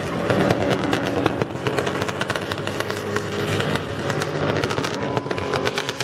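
Engine of a drifting BMW 3 Series held at high revs as the car slides in circles with its rear tyres spinning and smoking; the engine note wavers as the throttle is worked, with many sharp crackles through it.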